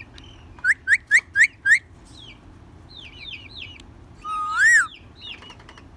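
Ringneck parrot calling: five quick rising chirps in about a second, then a run of softer falling chirps, then one longer whistle that rises and falls.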